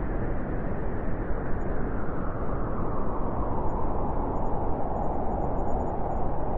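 Strong wind blowing steadily in a snowstorm, a dense rushing noise with a heavy low rumble.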